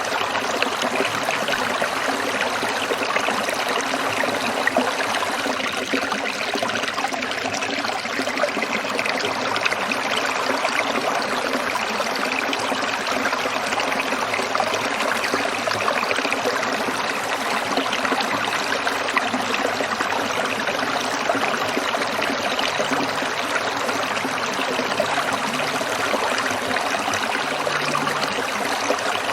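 Small stream of water trickling and babbling steadily over stones, a continuous splashing hiss.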